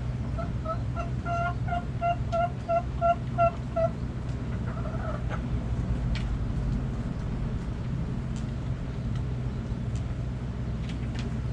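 Chicken clucking: a run of about ten short, even clucks, roughly three a second, over the first four seconds, then a steady low rumble with a few faint ticks.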